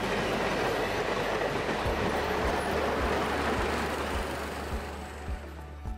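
Passenger train passing close by: a steady rumble of wheels on rail with regular clacks about twice a second, fading away toward the end as the coaches go by.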